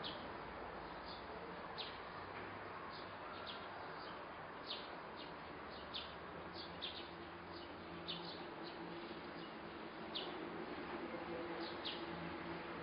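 Bird chirping outdoors: short, high, downward chirps repeated irregularly, about one or two a second, over steady background noise.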